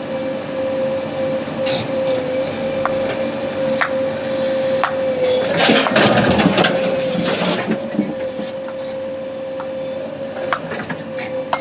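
JCB backhoe loader running with a steady whine, with scattered knocks and a dense clattering burst lasting about two seconds in the middle, the loudest part, as material is handled during loading.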